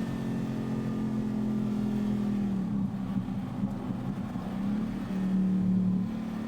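Supercharged Jeep SRT engine running at a steady, fairly low speed, with small changes in engine speed; it rises and grows louder for about a second near the end.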